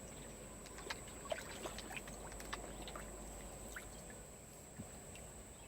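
Faint scattered small splashes and sucking clicks of water as carp feed at the surface of a pond.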